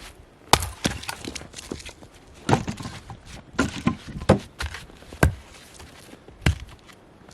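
A series of about six sharp knocks and thuds, irregularly spaced roughly a second apart, with the loudest near the middle.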